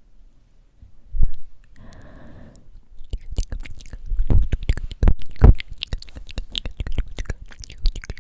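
Close-miked ASMR mouth sounds: wet clicks and smacks of the lips and tongue, coming thick and fast after about three seconds. A single click comes about a second in, followed by a short, breathy hiss.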